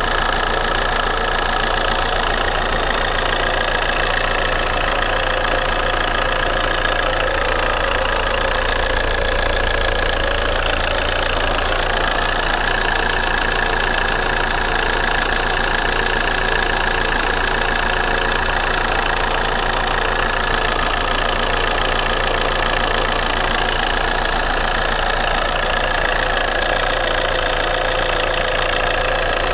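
Alfa Romeo 147 1.9 JTDm 16V four-cylinder common-rail diesel engine idling steadily, with a metallic noise the owner calls a strange sound and has not identified.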